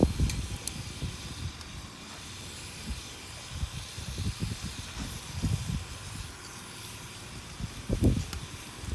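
Wood campfire burning with a steady hiss and a few faint crackling pops. Irregular low bumps come through now and then, the strongest near the end.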